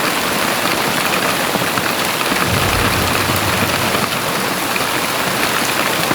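Very heavy rain pouring steadily, a dense, even hiss of drops. A short low rumble comes a little over two seconds in.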